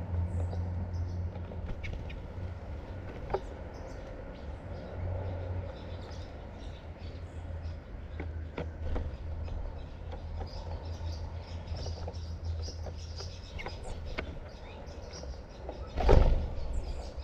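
Several small birds chirping in short, scattered calls over a steady low hum, with one loud bump about sixteen seconds in.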